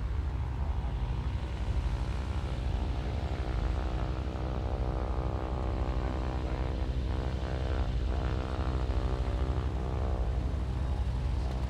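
Van's RV-8 light aircraft's piston engine and propeller running steadily, a pitched engine drone over a low rumble.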